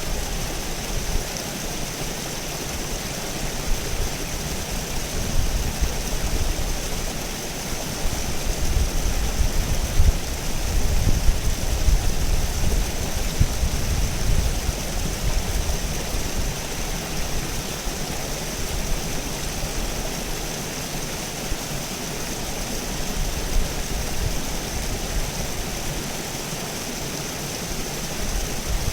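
River water flowing and rushing steadily, with a low rumble that swells in the middle and eases off again.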